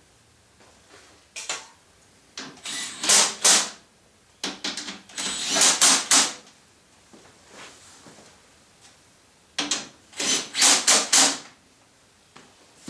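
Hand-tool work on a table saw's threaded leveling mechanism: a short burst of clicking about a second in, then three spells of rapid clicking and scraping lasting a second or two each, with quiet pauses between.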